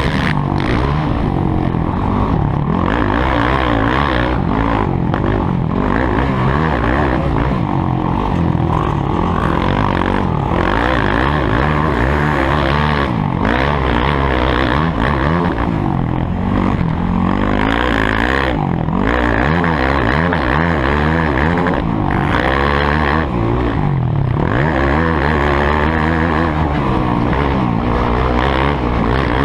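Motocross motorcycle engine running hard, its pitch rising and falling again and again as the throttle is opened and closed.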